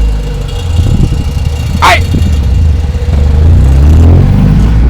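Car engine running steadily, picking up in revs toward the end, with one short high squeal about two seconds in.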